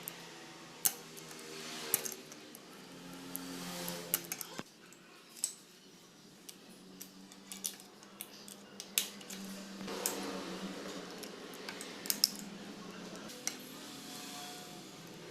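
Metal tools and engine parts clinking and clicking during hands-on disassembly of a scooter engine. The sharp taps come irregularly, about a dozen of them, with two close together past the middle.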